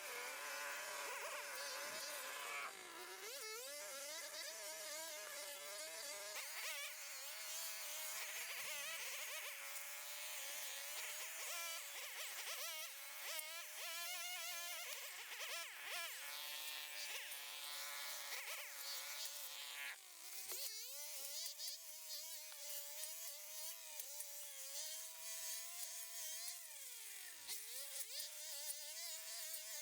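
A small engine running fast with a high buzzing whine, its pitch wavering up and down as if under varying load. The pitch dips sharply and recovers a few times, the last time near the end.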